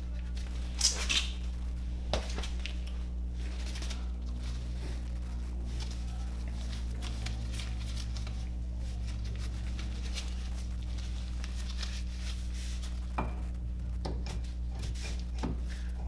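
Light metallic clinks and knocks from tools and brake parts being handled during a brake pad job, loudest about a second in, over a steady low hum.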